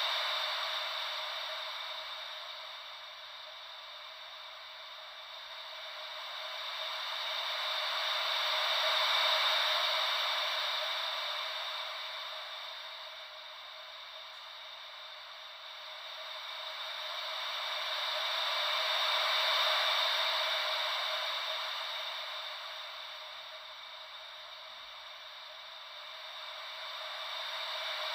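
Ocean-wave white noise: an even hiss that swells and fades slowly, about every ten seconds, like waves washing in and drawing back.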